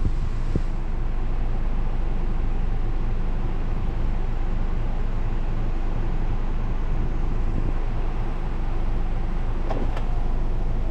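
Nissan Serena C25 engine running steadily with a low, even hum, on its newly fitted spark plugs and ignition coils. A short click comes near the end.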